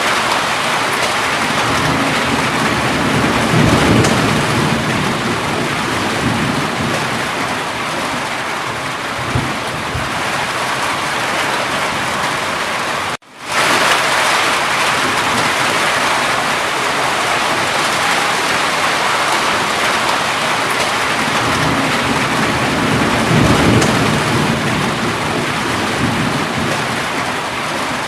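Steady heavy rain pouring on a surface, with low rolls of thunder swelling twice, a few seconds in and again near the end. The sound cuts out for an instant about halfway through.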